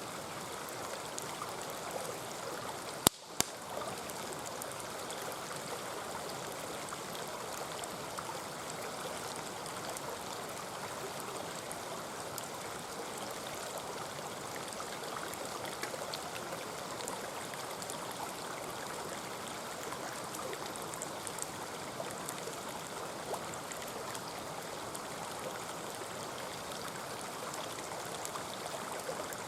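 Mountain stream babbling and rushing steadily over stones. About three seconds in there is a sharp click, then a smaller second one.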